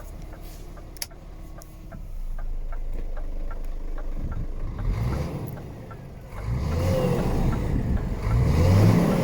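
Scania R450 truck's diesel engine running and being revved, rising in pitch in a short surge about halfway through and again more strongly toward the end, over a quick, even ticking.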